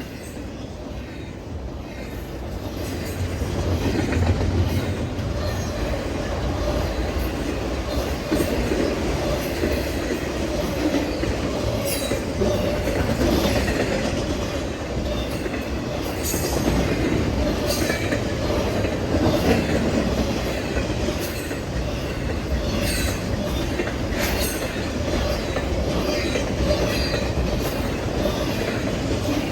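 Norfolk Southern freight train rolling past: a steady rumble of wheels on rail with repeated clicks as the cars cross rail joints, growing louder over the first few seconds and then holding steady.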